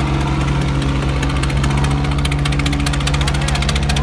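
Tractor diesel engine running steadily at idle, with an even, unchanging hum and a rhythmic clatter.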